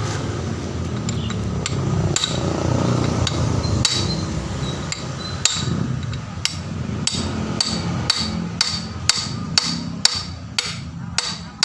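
Hammer striking metal repeatedly, each blow ringing. The blows are spaced out at first and come about two a second in the second half, over a steady low rumble.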